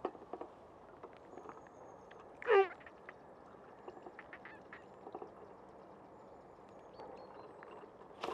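A waterbird's single short call, falling steeply in pitch, about two and a half seconds in. Around it, faint scattered clicks and rustles from handling the weigh sling and scales.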